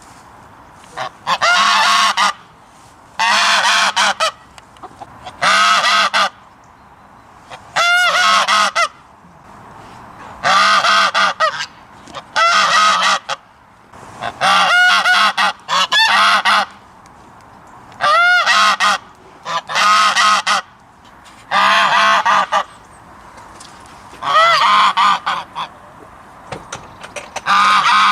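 Goose honking: loud, nasal honks in bouts of about a second, repeated every couple of seconds with short pauses between.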